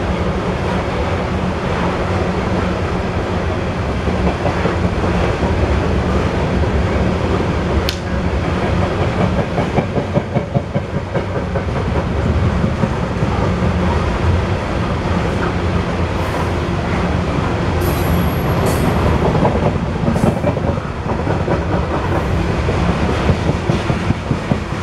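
BNSF coal train's hopper cars rolling past: a steady low rumble with a rhythmic clatter of wheels on the rails. A few brief high wheel squeals come in the second half.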